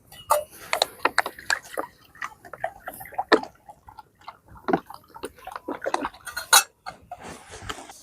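A rapid, irregular string of small clicks and knocks of hard objects being handled.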